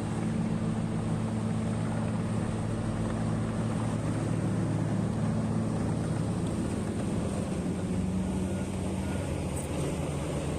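Diesel engine of heavy mining earthmoving equipment running steadily at a constant speed.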